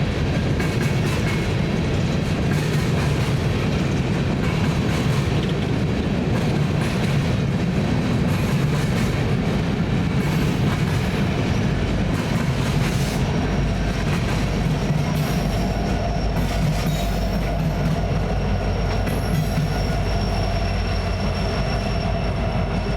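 A BNSF freight train rolling past: steady rumble of wheels on the rails with scattered clicks from the rail joints. About halfway through, steady high wheel squeal sets in and holds.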